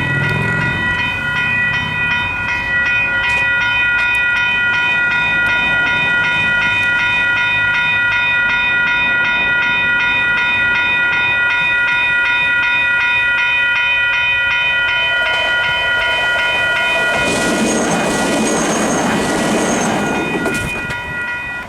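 Level-crossing electronic warning bells (Western Cullen Hayes e-bells) ringing in rapid, even strokes. In the last quarter a train passes loudly, with a high whine above the rush of its wheels, and fades away near the end.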